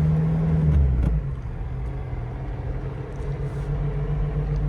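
Van engine running at low speed, heard from inside the cab: a steady low hum, with a heavier low rumble that drops away about a second in.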